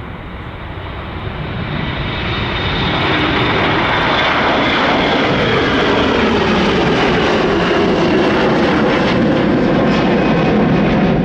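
Jet airliner engines growing louder over the first few seconds, then running loud and steady.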